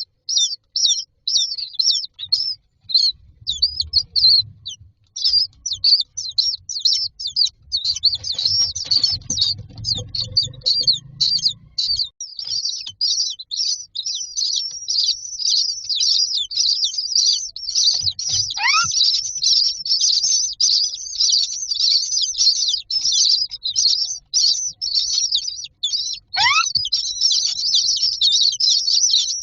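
Common myna chicks in a nest box giving rapid, high-pitched begging chirps while waiting for food. The chirps grow denser and almost unbroken in the second half. Two short calls fall sharply in pitch, and there is some low bumping early on.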